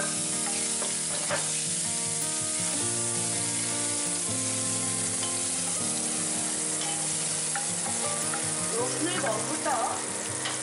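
Chopped garlic and dried red chilli sizzling steadily in hot olive oil in a cast-iron skillet, stirred with a wooden spatula.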